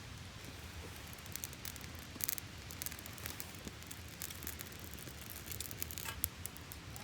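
Wood campfire crackling, with irregular sharp pops, a few louder ones about two and six seconds in, over a steady low rumble.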